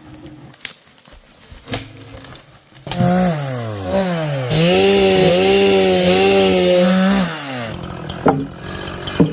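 Two-stroke chainsaw idling, then revved hard about three seconds in and cutting into wood, its pitch sagging briefly under load, with a steady rasp of the chain in the wood. It drops back to idle near the end, with a couple of sharp clicks.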